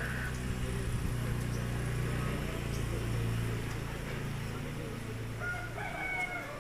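A steady low motor hum that swells and fades, with a few short bird chirps near the end.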